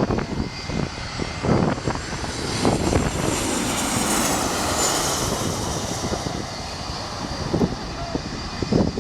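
Boeing 737's twin CFM56 turbofan jet engines on landing approach, a steady loud jet noise with a high whine that falls in pitch around the middle as the airliner passes.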